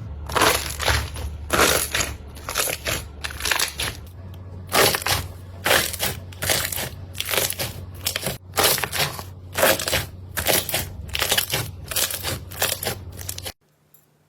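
Slime being squeezed and pressed by hand in repeated crackly strokes, about two a second. It stops abruptly near the end.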